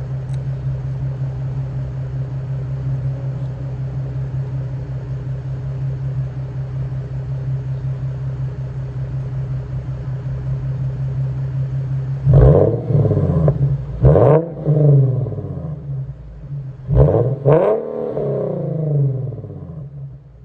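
Infiniti Q50's 3.7-litre VQ37VHR V6 heard through a muffler-delete exhaust, idling steadily for about twelve seconds and then revved up a few times, each rev climbing quickly and falling back to idle.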